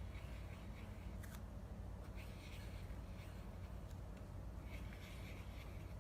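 Faint, brief scratches and rustles of paper being handled while making a notepad, with one sharp click about a second in, over a steady low hum.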